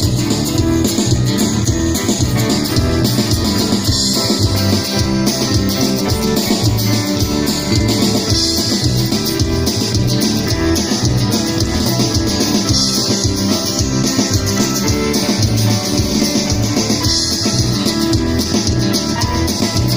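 Instrumental break of a rock band playing a steady beat: guitar, bass and drum kit, with a shaker or cymbal adding a constant high rhythm.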